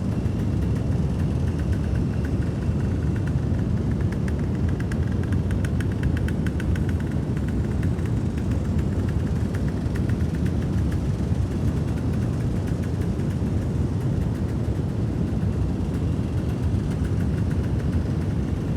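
Honda ATC 250R's two-stroke single-cylinder engine idling steadily.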